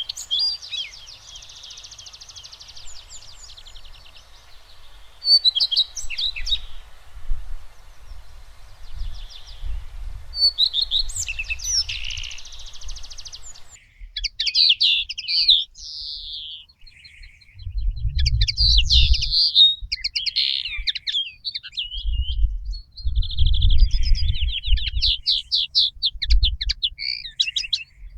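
Several birds chirping and singing, with overlapping short calls and fast trills, busier in the second half. A faint steady hiss under them cuts off about halfway through, and low rumbles come and go, strongest in the second half.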